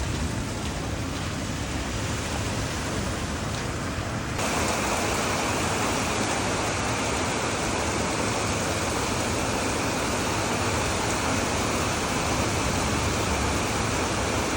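Heavy rain pouring down in a steady, even rush. About four seconds in it suddenly becomes louder and fuller.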